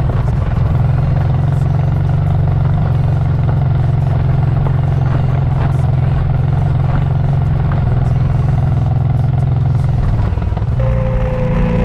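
Honda Transalp XL650V motorcycle under way, its 647 cc V-twin engine running steadily under a heavy drone of wind on the camera microphone. Near the end a new pitched tone joins and slides slightly downward.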